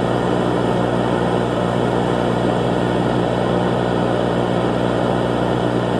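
A steady, unchanging drone with hiss, with no rise or fall in level.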